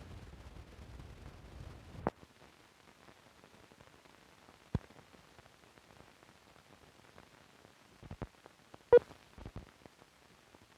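Surface noise from a 16mm film's soundtrack leader: a faint low hum that stops about two seconds in, then a few scattered sharp clicks and pops, the loudest near the end.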